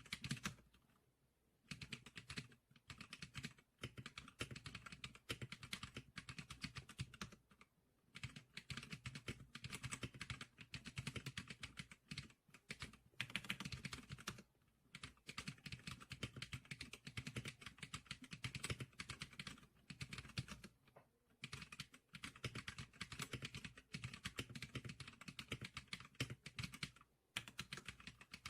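Rapid typing on a Zclicker SPK100 keyboard: continuous runs of key clicks with a few short pauses.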